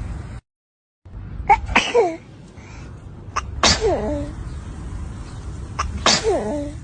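Three sneezes about two seconds apart, each a sharp burst that trails off in a falling pitch. The sound cuts out completely for about half a second near the start.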